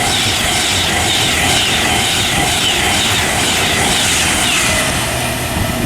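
Class 390 Pendolino electric express passing straight through the station: a loud, steady rush of wheels on rail and moving air, easing slightly near the end.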